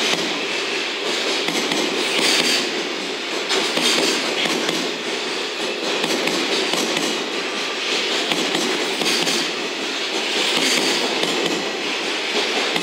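Container wagons of a freight train rolling past at speed: a steady rumble and clatter of steel wheels on the rails, swelling to louder clatter every few seconds as wagons go by.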